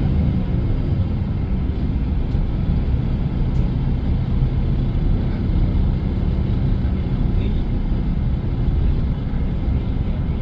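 Steady low rumble of a moving bus: engine and road noise, heard from inside the coach.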